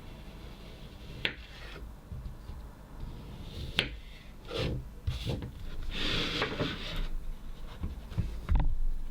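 Kinetic sand being cut and scraped with a knife: several short scraping strokes, densest in the middle, with a few sharp taps.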